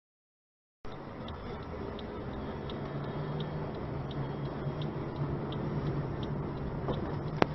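Car's direction indicator ticking evenly, about one and a half ticks a second, over a steady low engine and road hum inside the cabin, starting abruptly about a second in. One sharp click near the end.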